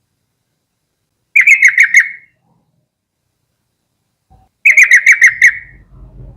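Yellow-vented bulbul calling: two bursts of quick, chattering notes about a second long each, the first about a second and a half in and the second near the end. A faint low rumble comes in at the very end.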